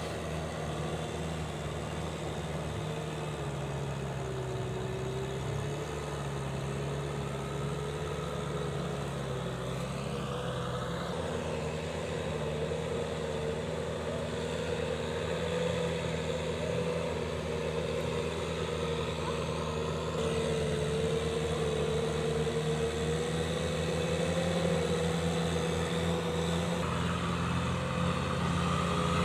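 Kubota M6040SU tractor's diesel engine running steadily, its pitch wavering slightly, growing a little louder over the second half.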